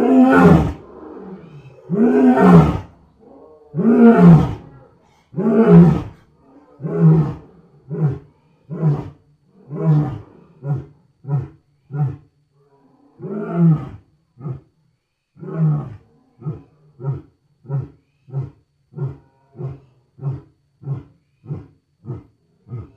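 A lion's roaring bout: four long, deep roars in the first six seconds, followed by a long series of short grunting roars that come about one every 0.6 s and grow shorter and quieter toward the end.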